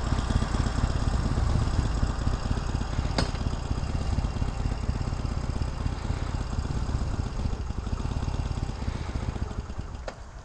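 Harley-Davidson Sportster Iron 883's air-cooled V-twin engine running steadily, fading somewhat near the end.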